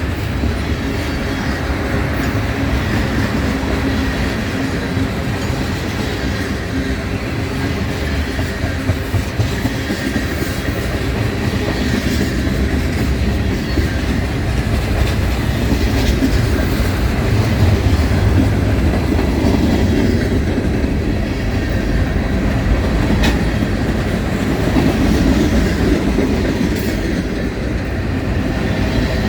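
A train rolling past with a steady rumble and the clickety-clack of wheels over the rail joints.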